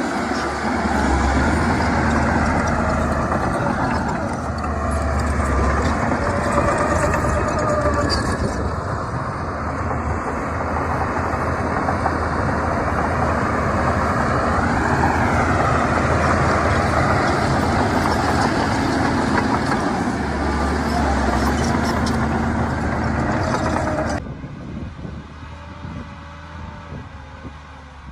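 Diesel engines of heavy earthmoving machinery running hard, a steady deep rumble with a brief rising and falling whine near the middle. About 24 s in the sound drops suddenly to a quieter engine running.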